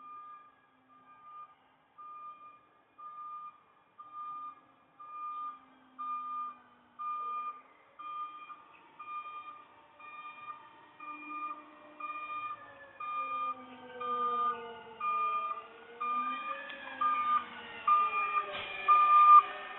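Garbage truck's reversing beeper: short single-pitch beeps about once a second, growing steadily louder. In the second half, lower sounds that glide up and down in pitch join beneath the beeps.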